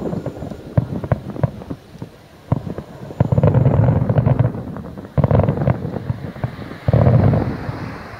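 Distant aerial fireworks: a string of rapid crackling pops, with heavy booms from large shells about three, five and seven seconds in, each rumbling away.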